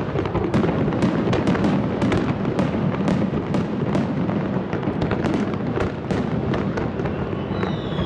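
Professional fireworks display: a dense, rapid run of shell bursts banging and crackling one after another. A short whistling tone sounds near the end.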